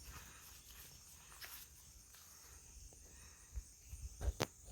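Quiet outdoor ambience of insects, probably crickets, holding one steady high trill. A couple of short rustles or steps break in, the clearest about four seconds in.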